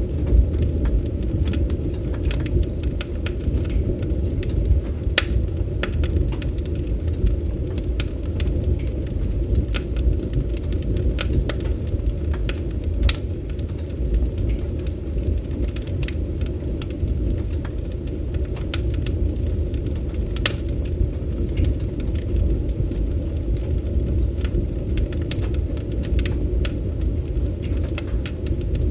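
Wood fire crackling: scattered sharp pops and snaps over a steady low rumble of burning.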